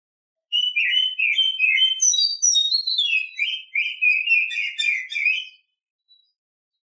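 Oriental magpie-robin (kacer) song, given as a female's song: one run of rapid, varied whistled and chattering notes lasting about five seconds. It starts about half a second in and stops abruptly.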